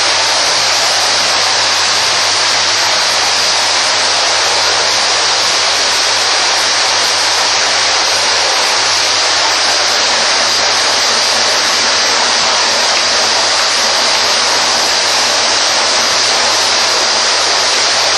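Vacuum cleaner running steadily: a loud, even rush of air with a thin high whine and a low hum underneath.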